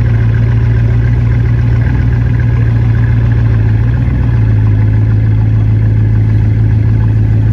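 Bugatti Chiron Pur Sport's quad-turbo W16 engine idling steadily and loudly after a cold start, its idle settling slightly lower about four seconds in.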